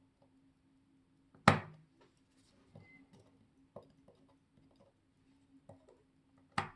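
Hand tools or small parts knocked down on a watchmaker's workbench: two sharp knocks, one about a second and a half in and one near the end, with a few faint taps between, over a steady low hum.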